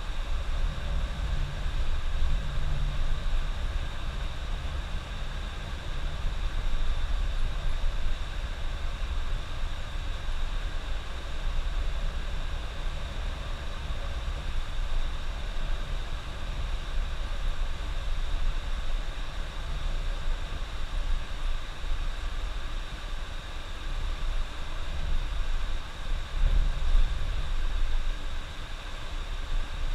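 Coach bus driving at speed on a highway: steady low engine and road rumble with tyre noise.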